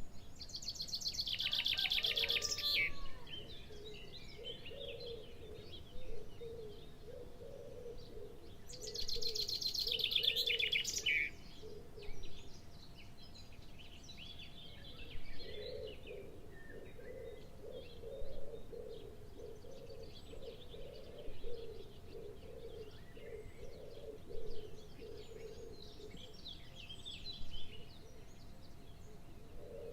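Birds calling: two loud, fast rattling trills about one and nine seconds in, short calls repeated every few seconds, and a low pulsing call running underneath.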